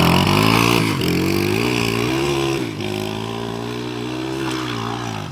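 Honda XR 100 dirt bike's small single-cylinder four-stroke engine pulling hard up a steep hill, its pitch dropping briefly about a second in and again near three seconds, then holding steady as it grows fainter moving away.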